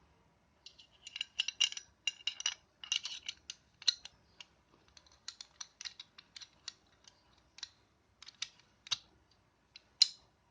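Parts of a WE Glock 18C Gen 4 gas blowback airsoft pistol clicking and rattling as they are worked by hand: an irregular run of sharp small clicks, with one louder click near the end.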